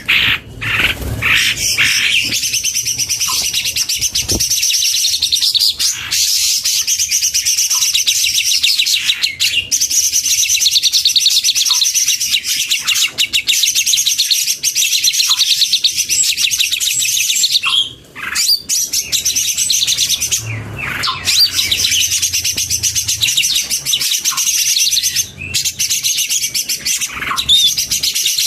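Several cucak ijo (green leafbirds) singing at once, a dense chorus of rapid chirps, trills and whistles with only brief pauses.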